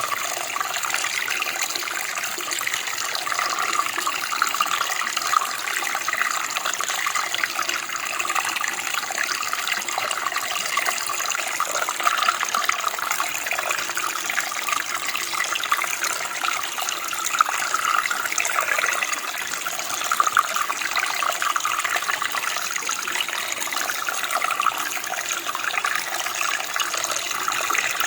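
Running water flowing steadily, a continuous splashing rush with small flickering peaks and no pauses.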